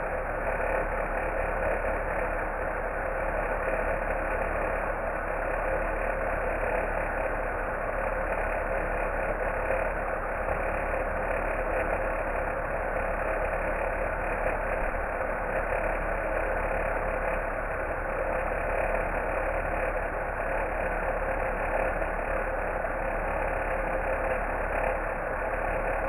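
Laptop cooling fan running steadily and making a strange, abnormal noise.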